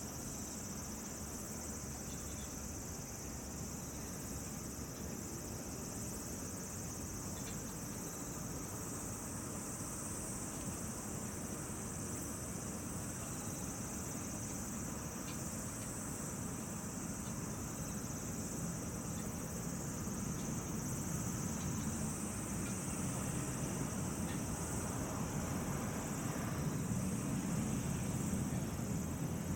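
Steady high-pitched chorus of insects trilling, with a low even rumble underneath that grows slightly louder near the end.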